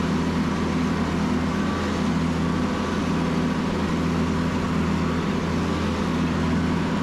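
A vehicle engine running steadily at a constant speed, with no revving.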